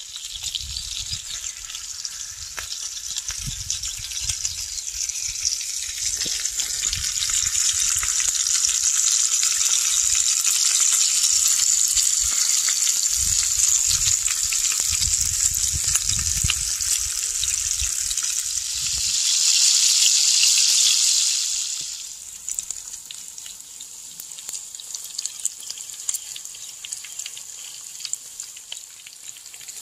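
Bacon and eggs frying in a cast iron skillet over a propane camp-stove burner: a steady sizzle full of fine crackles and pops. It is loudest about two-thirds of the way through, then drops suddenly to a softer sizzle.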